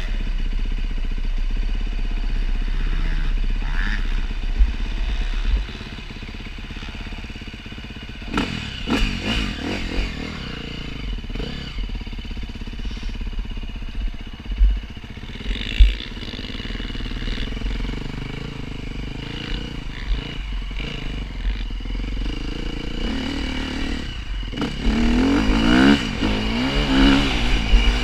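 Motocross bike engines running and revving, rising and falling in pitch, with scattered sharp knocks through the middle; the revving gets louder and busier near the end.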